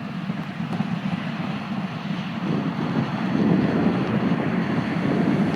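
TasRail TR-class diesel locomotives approaching slowly, a low steady engine rumble that grows gradually louder, with wind noise on the microphone.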